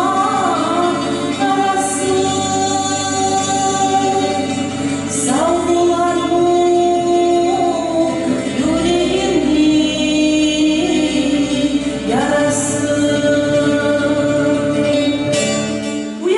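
Folk ensemble singing a song together in long held notes over a steady low accompaniment, the melody shifting every few seconds. It stops just before the end.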